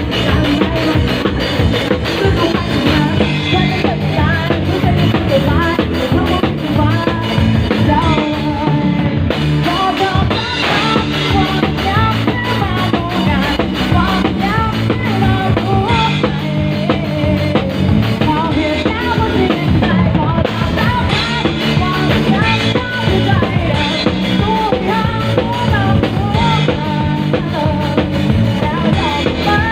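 Band music with a drum kit keeping a steady beat under a wavering melody line, with singing.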